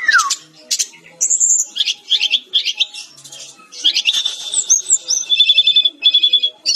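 Sikatan-rimba dada-coklat (Cyornis olivaceus, a jungle flycatcher) singing a fast, varied song of high chirps and whistled notes. It ends in a rapid repeated trill in the last second or so.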